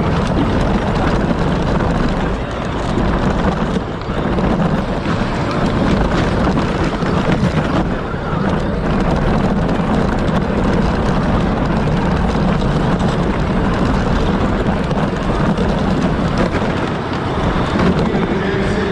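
Power Wheels race car running flat out on the track. Its motor and drivetrain make a steady noise, with wind buffeting the onboard microphone.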